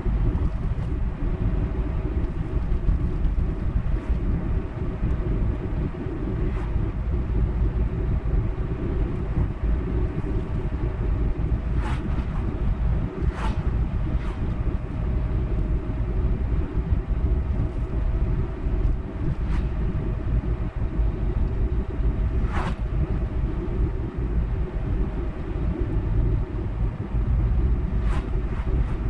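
A car driving at steady speed: a continuous low rumble of road and engine noise with a faint steady hum, broken by a few brief ticks.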